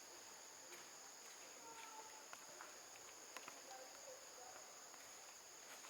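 Quiet outdoor ambience: a steady high-pitched insect drone with a few faint clicks and short faint chirps.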